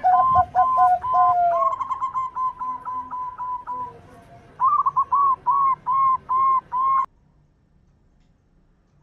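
Zebra doves (perkutut) cooing: quick trains of short repeated coo notes, with a lower run of notes overlapping at first. A second run of notes starts near the middle and cuts off abruptly about seven seconds in.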